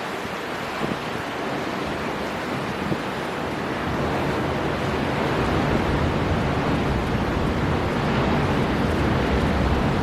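Storm wind blowing hard off the sea with surf breaking. A low rumble of wind buffeting the microphone grows stronger about halfway through.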